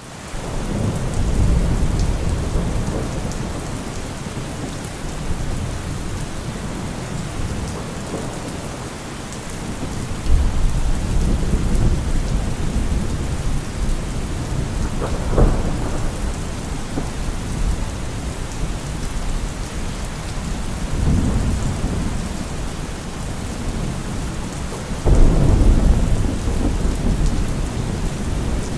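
Steady rain with thunder rumbling again and again: low rolling peals, a sharper crack about halfway through, and the loudest peal breaking in near the end.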